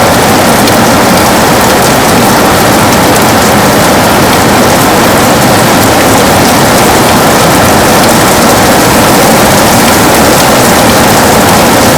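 Heavy rain falling steadily on a window, a dense, even hiss of drops.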